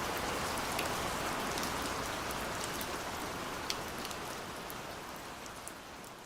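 Steady rain falling, with the sharp patter of individual drops striking a surface, fading out gradually.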